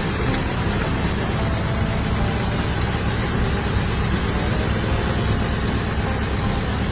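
A 1967 Ford Thunderbird's 428 big-block V8 idling steadily.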